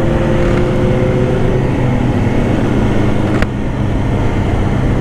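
Sport bike engine running, its pitch slowly dropping as the bike eases off. There is a single sharp click about three and a half seconds in.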